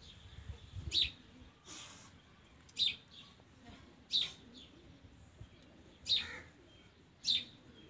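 A bird chirping: five short, sharp chirps spaced about one to two seconds apart.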